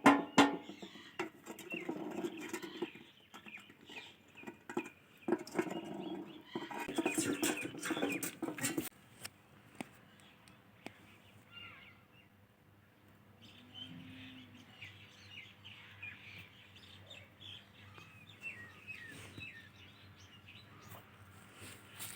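Indian ringneck parakeet chirping and chattering in short bursts, louder during the first nine seconds, then softer, scattered chirps.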